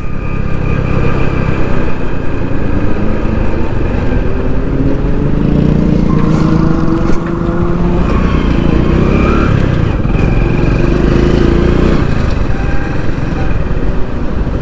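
Hero Splendor Plus's 100cc single-cylinder four-stroke engine running under way, its note climbing slowly as the bike gathers speed and dropping about twelve seconds in, over a steady rush of wind and road noise.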